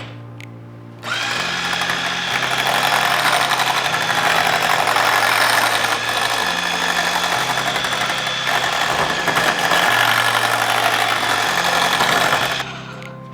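Electric mixer running steadily, whipping water into goat's milk lotion base to thin it to a lighter cream; it starts about a second in and stops near the end, with background music underneath.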